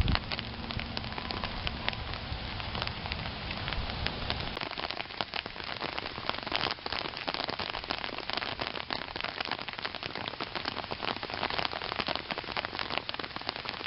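Heavy rain pouring down, a dense steady patter of drops hitting surfaces. A low rumble runs underneath for the first four or five seconds, then stops.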